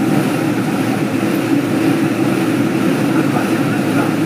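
Steady rumble of a passenger train running along the track, heard from on board.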